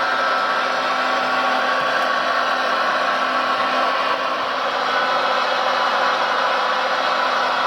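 Radio-controlled construction machine running, a steady motor whir with a constant whine.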